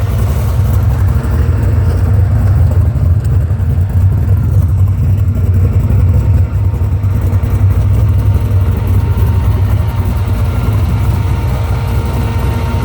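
GM LS-series V8 in a 1950 Chevrolet truck, running with a steady low rumble.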